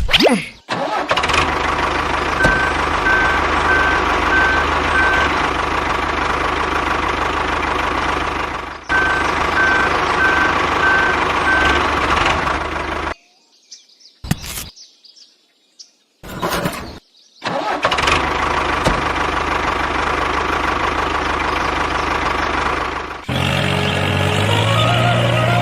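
Small engine running steadily, broken by a few seconds of near silence about halfway through. A short repeating high beep sounds over it twice. Near the end it gives way to a stepped, rising tune.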